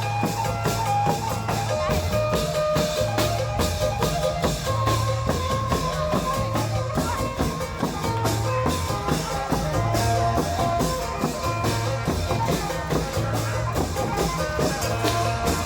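Isan klong yao long-drum band playing: dense, regular drumming over a pulsing bass line, with held melody notes above.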